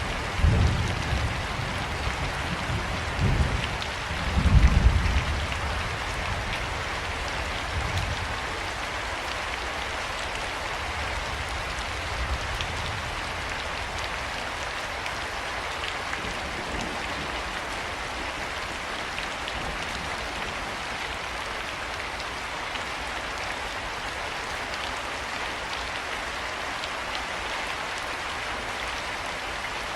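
Steady heavy rain falling and pattering. In the first five seconds low rumbles of thunder die away, the loudest about four to five seconds in.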